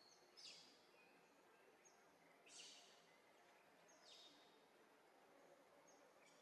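Faint forest ambience with a bird calling: three short high calls that fall sharply in pitch, a second or two apart, with a few fainter short high notes between.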